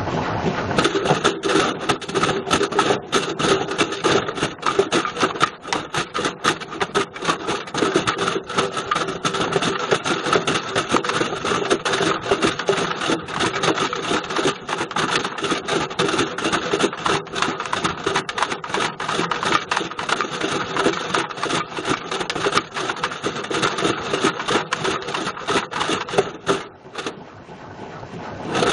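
Bush VCR807 video recorder tumbling inside a Beko washing machine drum, its casing and loose parts clattering and banging against the drum in a loud, continuous rapid rattle. The clatter eases briefly near the end, then starts again.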